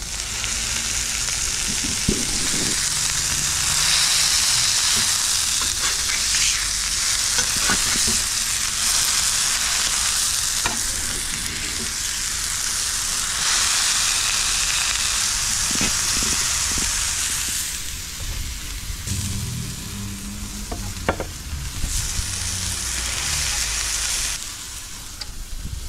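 Tuna burger patties and onion rings sizzling steadily on a hot barbecue hotplate. A metal spatula now and then clicks and scrapes on the plate as it presses and turns them.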